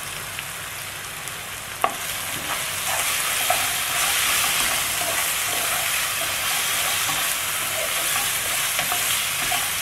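Yellow spice paste sizzling in oil in a non-stick wok as it is sautéed until fragrant. A single knock about two seconds in, then a slotted spatula stirs and scrapes through the paste and the sizzle grows louder.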